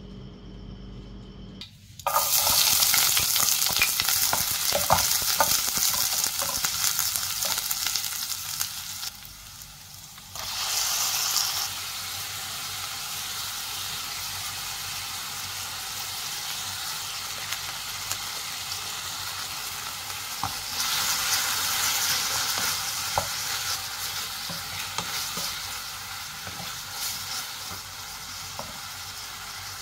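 Shredded chicken breast and sliced onion sizzling in a hot nonstick frying pan, stirred with a wooden spatula that scrapes and clacks against the pan. The sizzle starts suddenly about two seconds in and drops away briefly around nine seconds before carrying on steadily.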